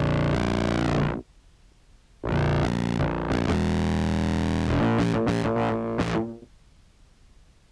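Contrabass clarinet sub-bass sample played through a filter pedal and fuzz: a low, buzzy distorted tone chopped by a random tremolo-like effect. It cuts out abruptly about a second in, returns a second later, breaks into fast stutters, then cuts out again near the end.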